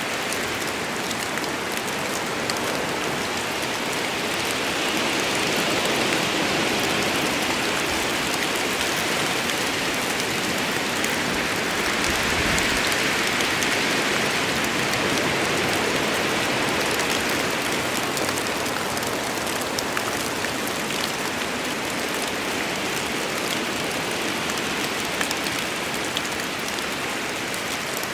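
Rain storm: steady heavy rain falling, a continuous rushing hiss dotted with the sharp ticks of individual drops close by. It swells a little louder about a third of the way in, then eases back.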